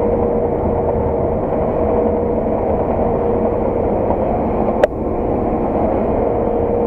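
Steady drone of a farm machine's engine heard from inside its cab during harvest work, with a steady hum running through it. About five seconds in there is a single sharp click.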